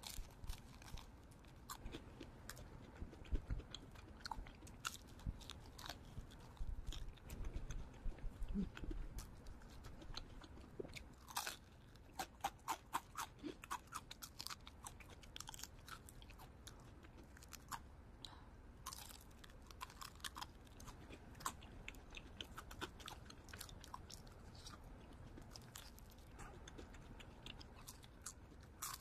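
A person biting and chewing crispy fried chicken, with many short, sharp crunches of the coating. The crunching is thickest about twelve seconds in and again around twenty seconds in.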